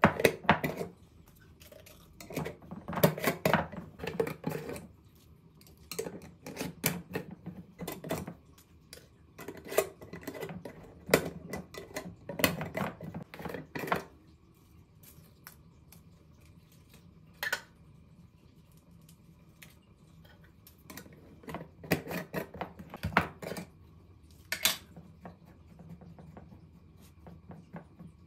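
Objects being handled: bursts of clinks, clicks and rattles lasting a second or two, with quieter pauses between them.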